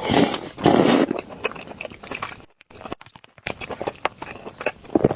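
Close-miked eating of tomato and egg rice: chewing and wet mouth clicks. A louder burst of eating noise comes in the first second, and there is a brief near-silent gap midway.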